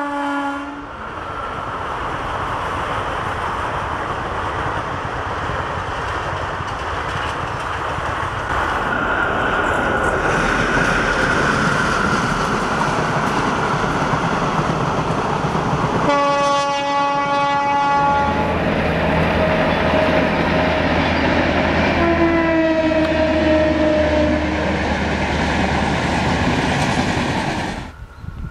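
Train running along the track with a steady rumble. A diesel locomotive's multi-tone horn sounds three times: a short blast at the very start, a longer one about 16 seconds in, and another about 22 seconds in that slides slightly down in pitch. A low engine drone runs under the later part.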